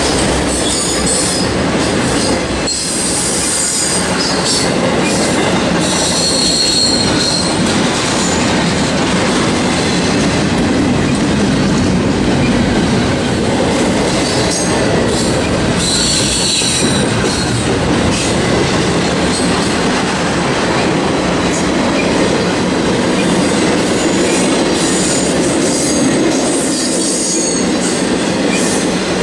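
Intermodal freight train rolling past close by: a steady rumble of steel wheels on rail, with high-pitched wheel squeal coming and going several times.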